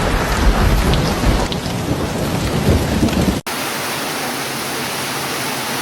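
Heavy rain with a low rolling rumble of thunder. About three and a half seconds in it cuts off suddenly and switches to a steady, brighter hiss of falling water with no thunder.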